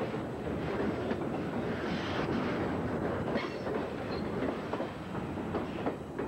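Covered hopper cars of a freight train rolling past close by, the steel wheels clicking over the rail joints in an uneven clatter, with a few brief high squeals from the wheels.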